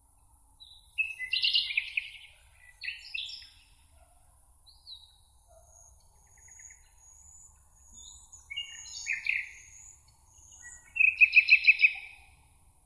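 Songbirds singing in short, warbling phrases, with faint high thin notes between them. The loudest is a rapid trill of even notes near the end.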